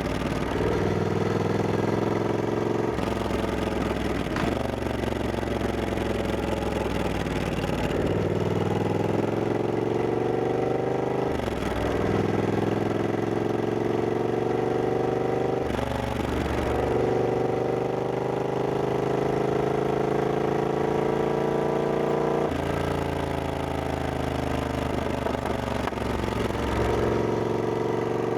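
Triumph Scrambler 1200X's 1200 cc parallel-twin engine pulling on the move, heard from the rider's position. Its pitch climbs steadily in each gear and drops sharply at each shift, about seven times, with wind and road noise underneath.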